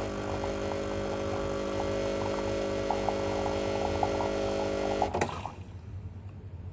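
Breville Barista Express espresso machine running with a steady electric hum. It stops with a click about five seconds in.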